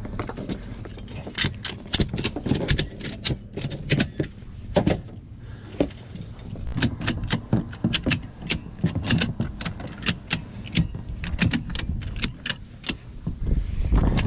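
Ratchet strap being cranked tight, a long run of sharp metallic clicks in uneven bursts.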